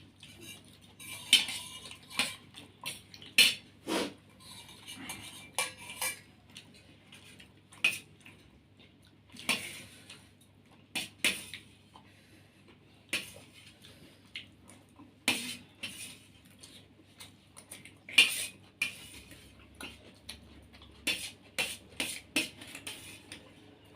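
Spoons clinking and scraping against plates while food is eaten, in irregular sharp clicks about once a second.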